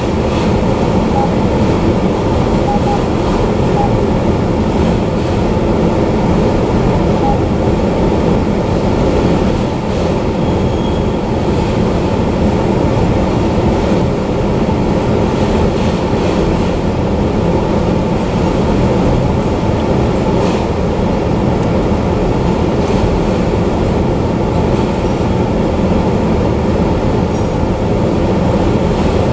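Freight train of enclosed autorack cars rolling steadily past: a loud, continuous rumble of steel wheels on rail, with now and then a faint, short wheel squeal.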